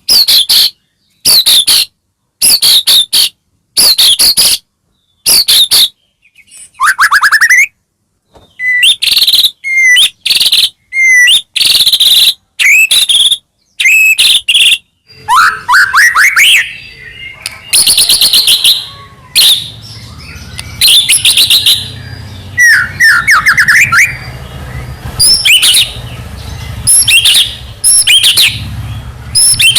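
White-rumped shama singing loudly: at first one short high phrase repeated about once a second with silence between, then a run of varied whistled phrases and rising glides. A low steady hum sits underneath in the second half.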